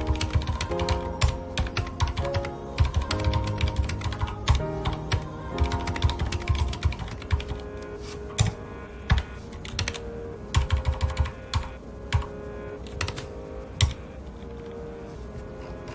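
Typing on a mechanical keyboard with red linear switches: irregular runs of keystrokes, dense in the first half and sparser, more spaced-out strokes in the second. Soft background music with held notes plays underneath.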